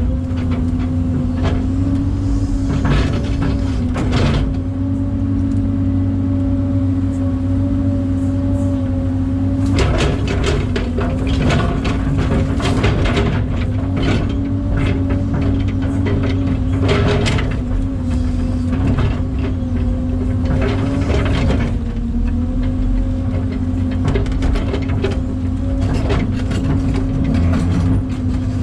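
Kobelco SK250 LC excavator's diesel engine running steadily under working load, with a constant droning tone. Bursts of clatter come and go several times as the machine digs.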